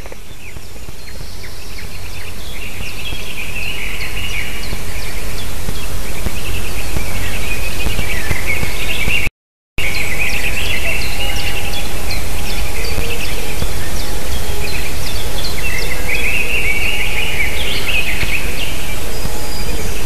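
Loud, dense bird chattering and twittering close to the microphone, rising over the first few seconds and then holding steady, over a low rumble. It cuts out completely for about half a second around nine seconds in.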